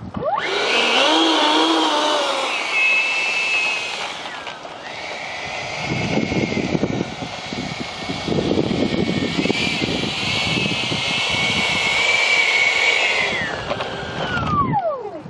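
A 68 mm ten-blade electric ducted fan on an RC jet spooling up to a high whine. It holds at high throttle with a brief dip about four seconds in, then spools down near the end. From about six seconds on there is a rough rumbling underneath.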